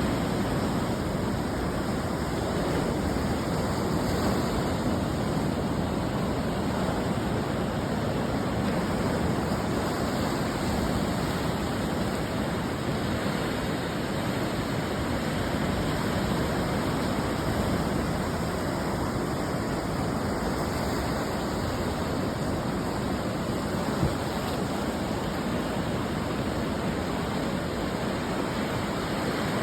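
Ocean waves breaking and washing onto the shore: a steady rushing hiss that swells and eases gently, with one brief tap about three quarters of the way through.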